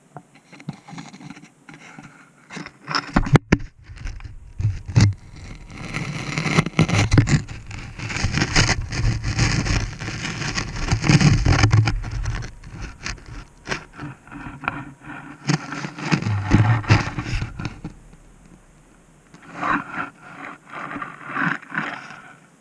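Camera scraping and knocking against the walls of a drilled borehole as it is lowered, with irregular knocks about three seconds in, a long stretch of dense rubbing in the middle and a shorter burst of scraping near the end.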